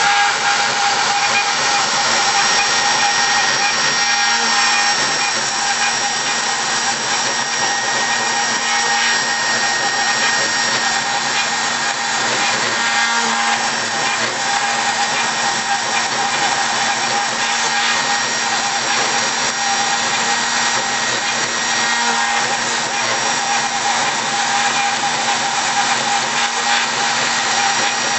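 Mini CNC machine running: a steady motor whine with several constant tones over an even hiss, holding unchanged throughout.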